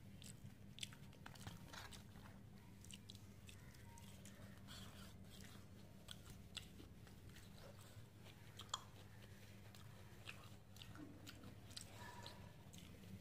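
Faint, close chewing of rice and fried potato eaten by hand: soft mouth clicks and smacks scattered through, with a couple of sharper clicks, over a steady low hum.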